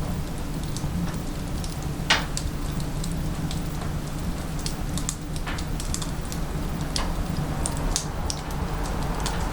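Wood fire burning in a wood-burning stove: a steady low rumble with scattered crackles and pops, the loudest pop about two seconds in.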